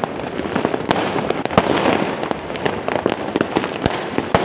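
Fireworks going off continuously: a dense barrage of many overlapping cracks and pops.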